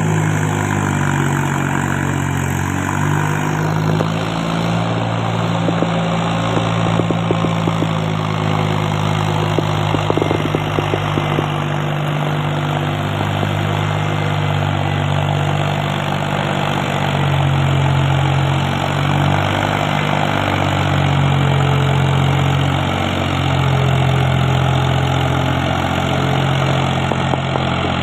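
Mahindra 265 tractor's diesel engine running steadily at a low, even speed, with a few light clicks between about six and eleven seconds in.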